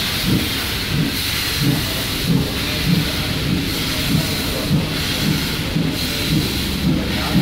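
Steam locomotive chuffing as it pulls away, a steady beat of exhaust about one and a half a second over a constant steam hiss.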